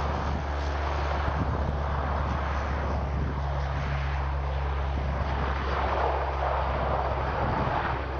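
Antonov An-32's two Ivchenko AI-20 turboprop engines at takeoff power, a steady low drone under a loud broad rumble.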